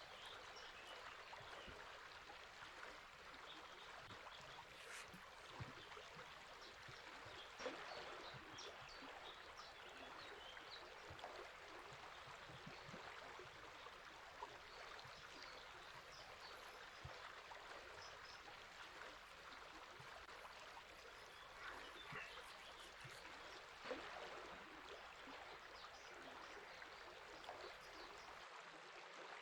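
Faint, steady rush of a flowing river, with small birds chirping and twittering in short calls scattered throughout.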